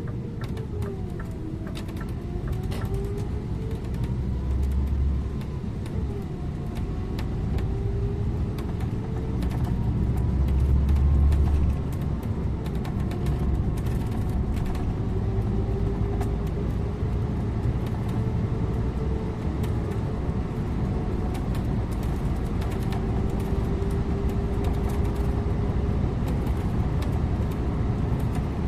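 Scania InterLink bus driving along the road: steady engine and tyre rumble, with a drivetrain whine that slowly rises and falls in pitch as the speed changes. The rumble swells twice, about four seconds in and again around ten seconds in.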